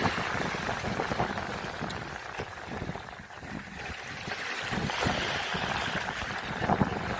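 Moving water: an irregular rushing noise with low buffets, easing a little midway and building again.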